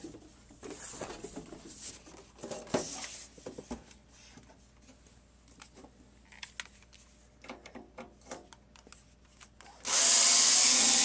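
Light clicks and knocks of the recorder's case and tools being handled, then near the end a power screwdriver runs steadily for about a second, backing out one of the case's Torx screws.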